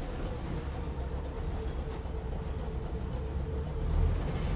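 Inside the Kambara Railway Moha 31 electric railcar as it gets under way after a station stop: a steady low running rumble with a faint steady hum over it.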